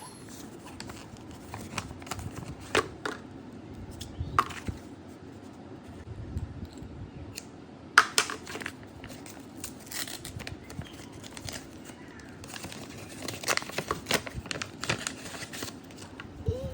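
Packaging crinkling and rustling as it is handled, with irregular sharp crackles and clicks.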